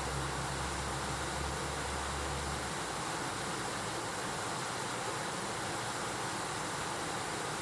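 Mountain stream rushing steadily over rocks. A low hum underneath stops suddenly about three seconds in.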